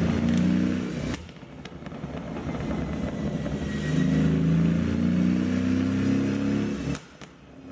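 Mercedes-AMG S63 twin-turbo V8 revving through a tuned exhaust. A short rev cuts off about a second in with a few sharp pops. A longer rev rises and holds for several seconds, then drops off suddenly near the end with more pops, the crackle of its pop-and-bang tune.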